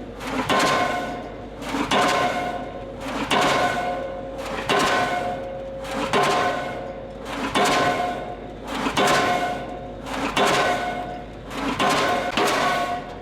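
Diesel pile hammer driving a steel H-pile, one blow about every 1.4 seconds. Each blow is a heavy strike followed by a metallic ringing from the pile that fades before the next one.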